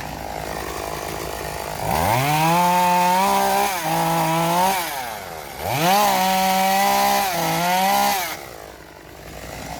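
Small gas chainsaw idling, then revved to full speed twice, each burst about three seconds long. The pitch dips briefly during each burst, typical of the chain biting into wood, before the saw falls back to idle.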